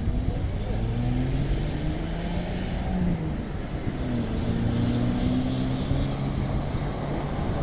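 Car engine running, its pitch gliding up and down as it revs, over a low rumble and a hiss that swells and fades.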